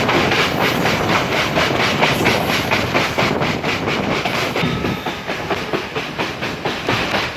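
Train wheels clattering over the rail joints at speed, a fast regular clickety-clack over a steady rumble of running gear, heard from aboard a passenger express.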